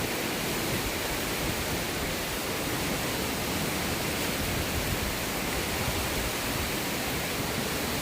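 Very strong wind blowing across the microphone: a steady rushing noise.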